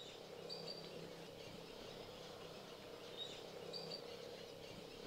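Faint natural ambience with small birds chirping: short high chirps in pairs, once near the start and again about three seconds later, over a steady low background noise.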